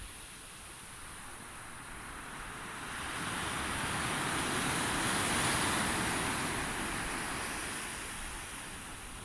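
Sea waves washing onto the shore: the rush of surf swells about three seconds in, peaks midway and ebbs away.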